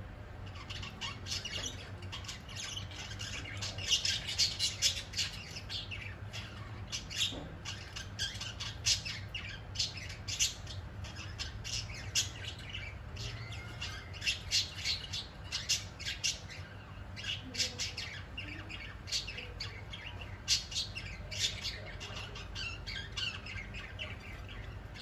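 Birds chirping and squawking in quick runs of short, high calls, over a faint steady low hum.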